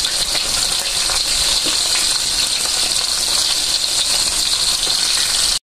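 Chicken pieces frying in oil in a wok: a steady sizzling hiss, with a pot of sliced radish boiling vigorously beside it.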